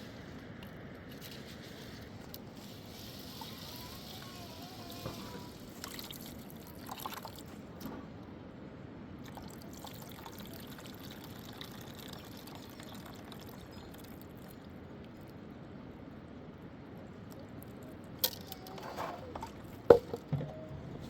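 Steady trickling, running water. Near the end come a few sharp knocks, the loudest about a second before the end.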